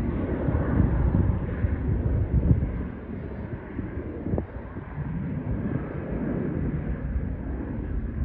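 Low rumble of a departing airplane's engines, louder in the first few seconds and dropping off after about three seconds.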